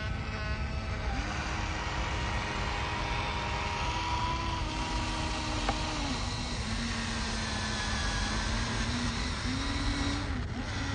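Small electric motors of radio-controlled toy construction machines whining, the pitch stepping and gliding up and down as the controls are worked, over a steady noisy background.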